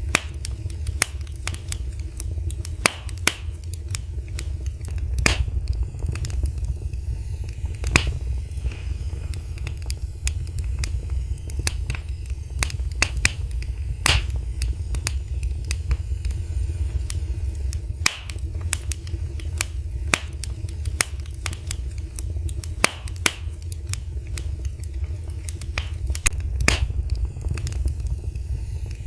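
Fire in a fireplace crackling, with irregular sharp pops and snaps several times a second over a steady low rumble.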